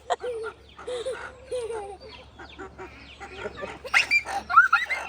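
Chickens clucking: a series of short low calls, with a louder run of higher, rising calls near the end.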